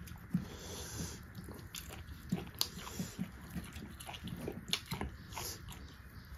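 Close-up eating sounds: two people chewing pork and mushrooms with wet mouth smacks, and short irregular clicks and crackles as food is picked up by hand.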